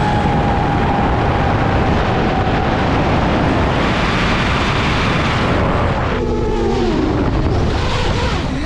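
iFlight Nazgul Evoque FPV quadcopter's brushless motors and propellers running under a heavy rushing noise. A steady whine fades into the rush in the first few seconds. From about six seconds in, the motor pitch swoops up and down with throttle changes.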